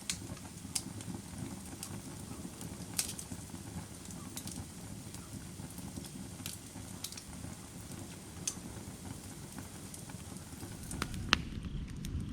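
Firewood burning with a steady low rush, broken by sharp crackles and pops every second or two, with a few in quick succession near the end.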